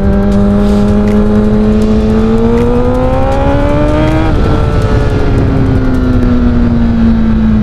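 Honda CBR1000RR's inline-four engine running while riding: the pitch climbs as the bike accelerates, drops sharply at a gear change about four seconds in, then slowly falls as it eases off. Wind rush on the microphone runs underneath.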